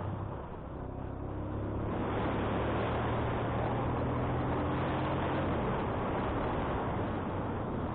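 Motorcycle engine running steadily as the bike climbs, with wind rushing over the microphone. Both dip briefly about half a second in, then come back up and hold steady.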